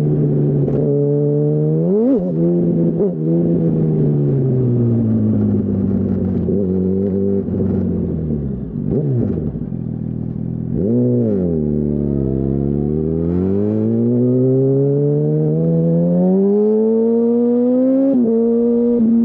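Yamaha R1 (2008) inline-four engine through a Termignoni full exhaust, heard on board. The revs wind down with several quick throttle blips, then climb steadily for several seconds before a gear change near the end, after which the engine holds a steady note.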